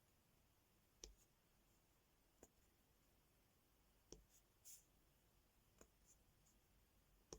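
Faint, scattered clicks and taps, about six over several seconds, of small plastic diamond painting drills being picked up and pressed onto a sticker, with one brief soft rustle in the middle.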